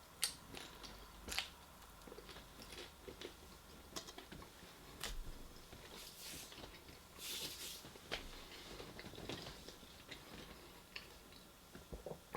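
A person chewing and eating food close to the microphone: scattered short clicks and crunches, with a couple of brief hissy bursts about six and seven seconds in.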